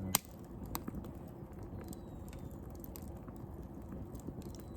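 Campfire crackling: a sharp pop just after the start, then scattered lighter snaps and ticks.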